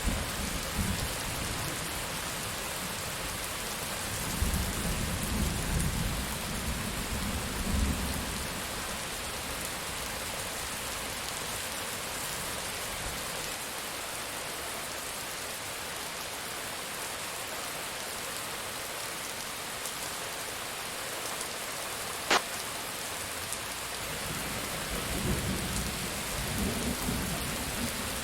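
Steady rain with low thunder rolling in and out: a rumble at the start, a longer roll from about four to eight seconds in, and another near the end. About 22 seconds in, one sharp click stands out over the rain.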